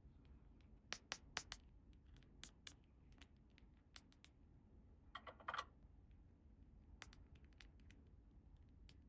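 Light clicks and taps of small plastic toy pieces being handled and set down, in scattered clusters, with a brief scrape about five seconds in.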